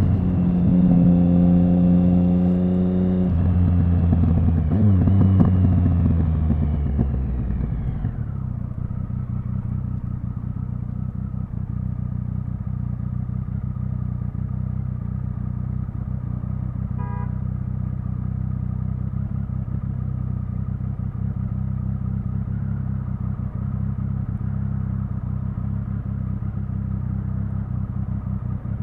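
Triumph Speed Triple 1050's inline three-cylinder engine running at steady revs, then the revs falling away over a few seconds and settling into a steady idle about eight seconds in.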